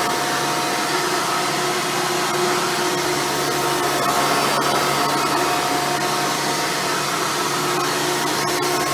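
Hoover Futura Elite upright vacuum cleaner running steadily, a motor whine over a steady rush of air, with a few light ticks.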